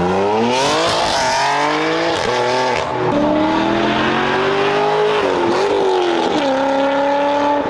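Car engine at full throttle: its pitch climbs steeply in the first second, then holds high with a few brief dips and recoveries, with a noisy rushing hiss over it.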